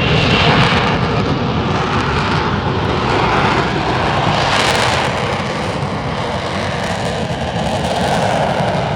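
Loud, continuous engine noise from a fixed-wing aircraft in flight, swelling slightly and then easing a little past the middle.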